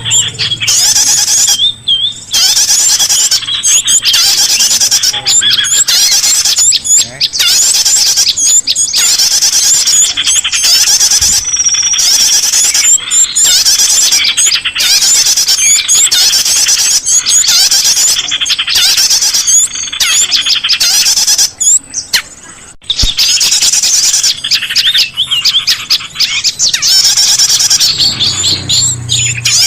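Dense, rapid, high-pitched chirping and twittering of several small birds overlapping almost without pause, with a brief break about two seconds in and another around twenty-two seconds in. It is a bird-lure (pikat) call recording used to draw small songbirds.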